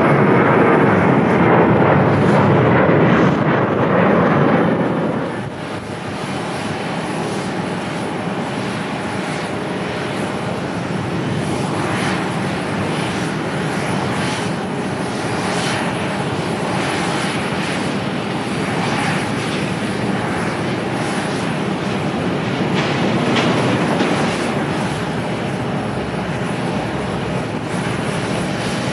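Passenger airliner's engines during a landing. A loud, dense rush for the first five seconds drops off suddenly, then continues as a steady rushing noise that swells briefly about 23 seconds in.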